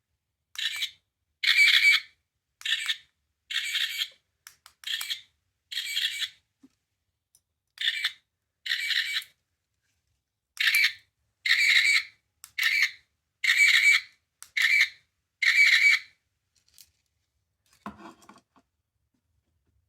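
A small sound-effect capsule toy playing short, hissy sound clips through its tiny speaker as its button is pressed again and again, about eighteen times with uneven pauses. A faint handling rattle comes near the end.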